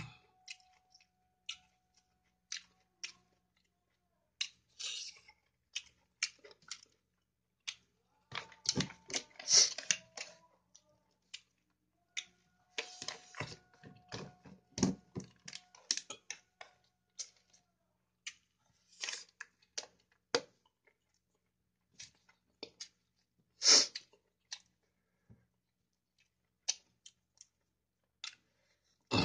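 A person chewing and eating chicken biryani by hand: irregular mouth clicks and chewing noises close to the microphone, with a few louder clusters and one sharp loud burst about two-thirds of the way through.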